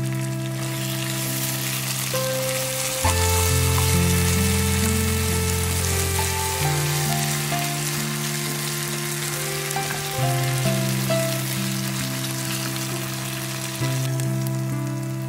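Rice, onion and tomato filling sizzling in a frying pan while a wooden spoon stirs it. Under it runs background music of slow held chords that change every three to four seconds.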